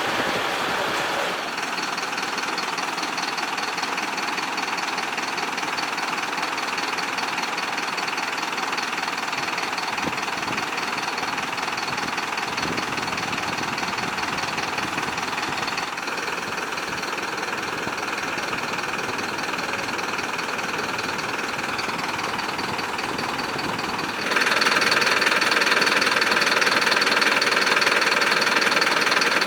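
Diesel engine running steadily, with a fine rapid clatter. It gets suddenly louder late on.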